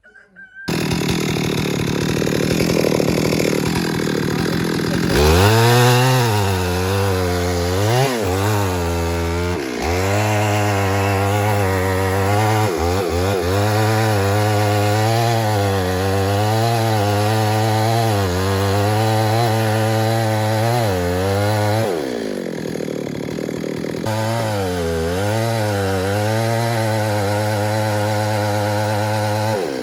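Stihl MS 382 two-stroke chainsaw starting about half a second in and idling, then revved to full throttle about 5 s in. Its engine speed wavers up and down as it cuts wood, typical of the bar under load. It drops back to idle around 22 s, revs and cuts again from about 24 s, and falls off to idle at the very end.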